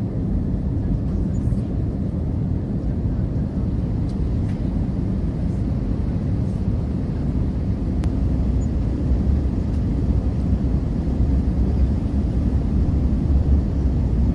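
Steady low rumble of a jet airliner, the noise sitting mostly in the low end and growing slightly louder in the second half, with a few faint ticks.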